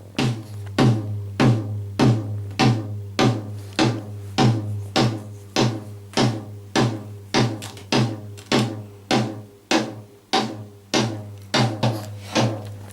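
Studio kick drum struck on its own at a steady pace, a little under two hits a second, loud, for a sound check.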